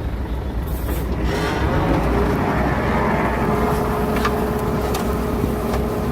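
Heavy diesel earthmoving machinery running steadily with a deep rumble, a little louder from about two seconds in, when a steady whine joins it, with occasional short clanks.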